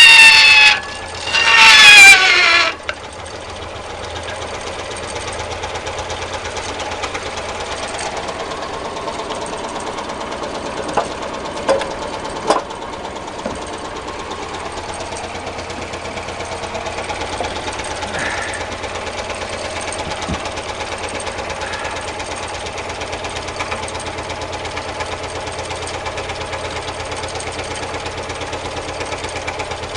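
Homemade four-cylinder double-acting alpha Stirling engine, air-charged at about 2 bar and fired with wood logs, running with a steady rapid clatter. It opens with two loud whine-like tones that fall in pitch over the first three seconds, and a few sharp clicks come near the middle.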